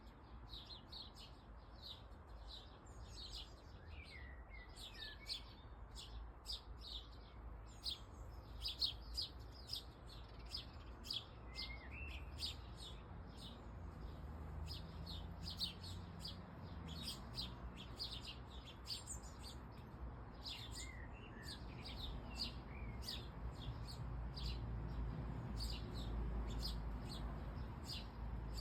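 Small birds chirping in a dense, continuous run of short, quick high chirps, with a few lower falling calls now and then. A low rumble sits underneath and grows louder in the second half.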